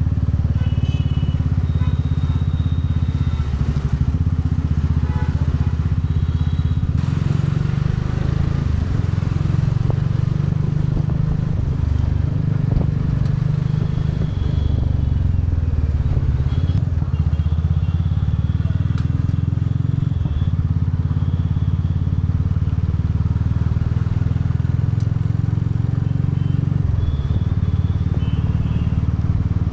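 Royal Enfield Bullet 350's 349 cc single-cylinder engine and exhaust running steadily while the motorcycle is ridden. The engine note changes about seven seconds in and again near the end.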